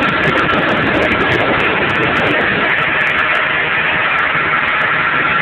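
A 20 hp outboard motor running steadily with the boat under way, a constant engine drone with a steady high whine over a dense rush of noise.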